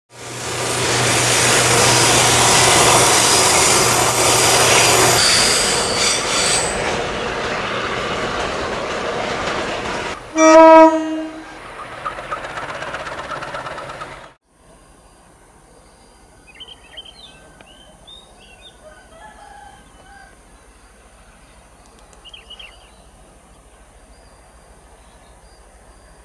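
Diesel freight train running close by, a loud rumble with a steady low engine hum, and one horn blast about a second long about ten seconds in, the loudest sound. The sound cuts off at about fourteen seconds, leaving faint open-air ambience with a few short bird chirps.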